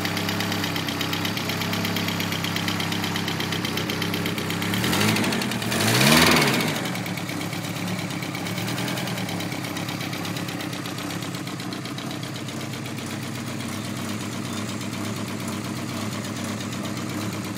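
Turbocharged Mk2 VW Golf engine, a draw-through turbo on a Weber 45 carburettor, idling through a tacked-up exhaust that is leaking a lot. It is blipped twice about five and six seconds in, the pitch rising and falling, then settles back to a steady idle.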